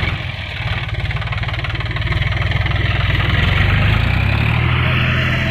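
Tractor's diesel engine running under load. It eases off briefly just after the start, then revs up over the next few seconds and holds at the higher speed.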